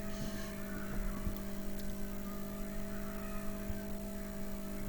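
Steady electrical hum with a faint background hiss, holding one even pitch with a higher overtone.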